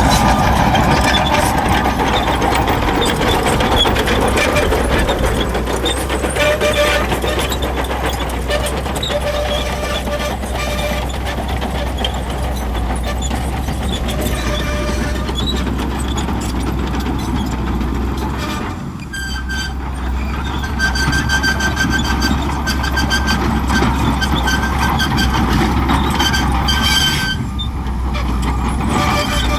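Shantui crawler bulldozer at work: its diesel engine running steadily under load, with high metallic squeals from the running gear coming and going. The machine's sound dips briefly twice, about two-thirds of the way in and near the end.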